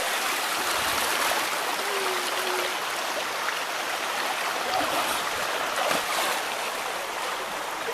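River water rushing steadily over rocks in a mountain stream, a constant hiss.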